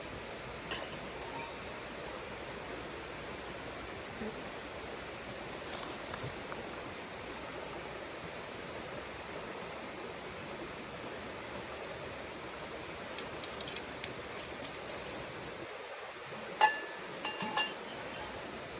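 Steady hiss with a few light clinks of metal or glass that ring briefly, once about a second in, a few in the middle and twice near the end.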